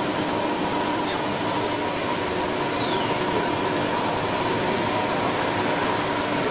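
CNC stone router running: a steady loud whir and hiss with a couple of steady hums, and a high whine that glides down in pitch about two seconds in.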